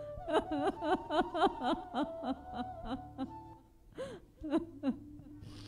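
A man sobbing hard: a quick run of short, gasping sobs for about three seconds, then a few more after a brief pause. A soft, held music note sounds underneath.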